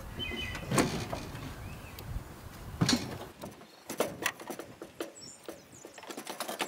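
Irregular metallic knocks, clinks and small ticks from engine parts and tools being handled while a cylinder head is worked loose, with a brief squeak near the start. Two louder knocks come about one and three seconds in.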